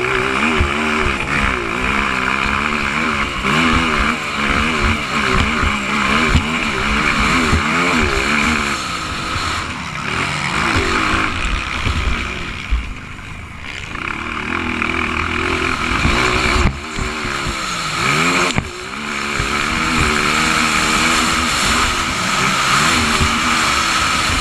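Motocross motorcycle engine revving up and down under hard throttle. It eases off briefly about halfway through, then drops and revs back up sharply a few seconds later.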